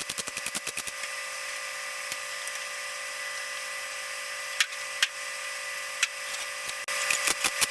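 Welding a steel patch panel into a car's rusted quarter panel: an electric welding arc hissing steadily with a few sharp cracks, and fast ticking in the first second and again near the end.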